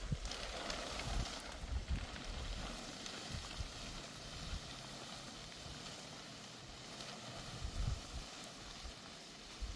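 Steady hiss of rain falling, with wind buffeting the microphone in irregular low gusts.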